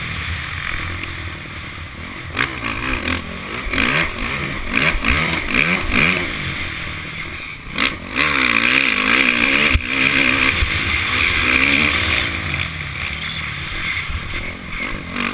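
A Honda CRF450 motocross bike's single-cylinder four-stroke engine heard on board, revving up and down repeatedly as the throttle is worked, with a few sharp knocks along the way.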